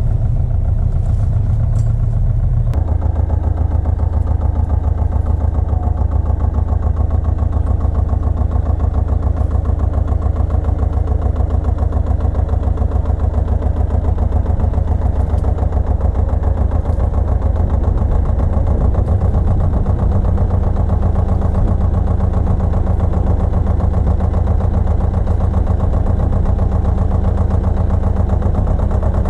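Pasquali 980 EX tractor engine running steadily with an even, rapid pulsing beat; its tone shifts about three seconds in.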